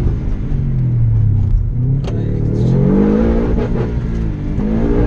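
Rally car engine heard from inside the cabin, accelerating hard: its note climbs in pitch, drops back about two seconds in and again near the end, then climbs once more.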